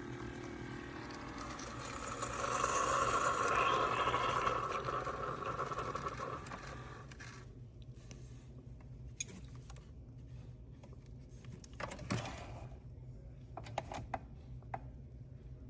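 Keurig single-serve coffee maker brewing, a steady hiss and pump noise that swells about two seconds in and dies away after about seven seconds. Scattered light clicks and taps follow.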